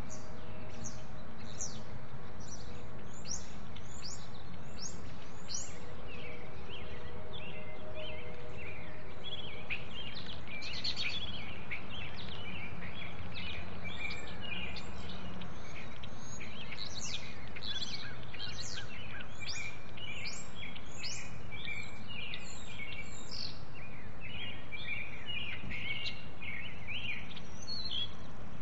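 Small birds chirping: runs of quick, high, down-slurred chirps, thickest in the first few seconds and again over the middle and end, over a steady low background rumble of outdoor noise.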